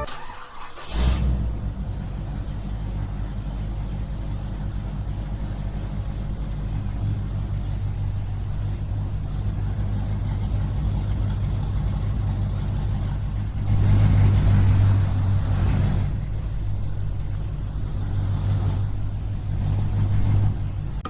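A small motor starts about a second in and runs steadily with a low hum, growing louder for a couple of seconds partway through and again near the end.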